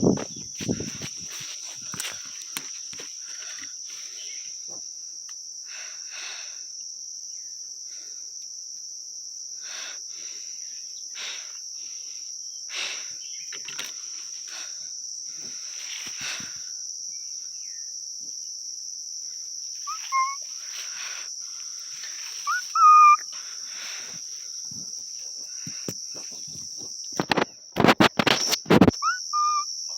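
Steady high chorus of crickets, with scattered soft rustling and a few short bird chirps in the second half. Loud rustles near the end.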